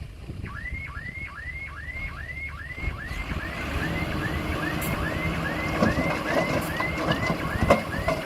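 Komatsu D20P bulldozer's diesel engine running, growing louder about three seconds in, with a short rising chirp repeating about three times a second over it.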